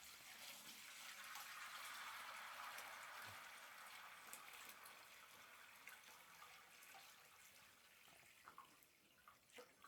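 Faint steady rush of running or pouring water, strongest about two seconds in and slowly fading, with a few small clicks near the end.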